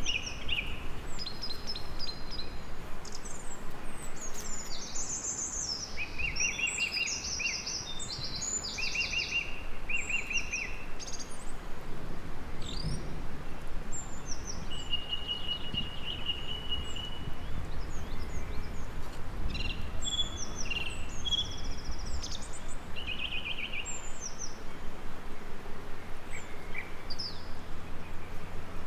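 Several small birds singing and chirping, with short repeated trills and a long whistled note about halfway through, over a steady low rumble of background noise.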